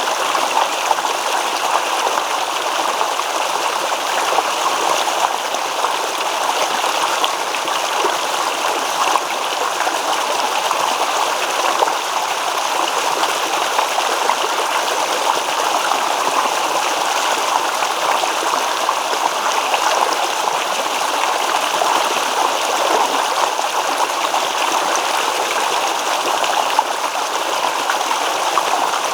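Small stream babbling over stones, a steady rush of running water with fine irregular gurgles and splashes throughout.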